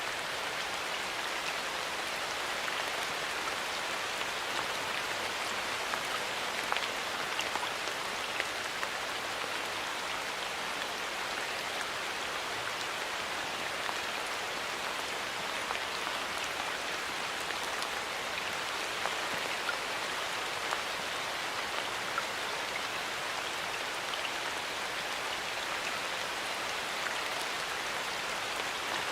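Steady rain falling in a forest, an even patter with scattered single drops ticking on leaves.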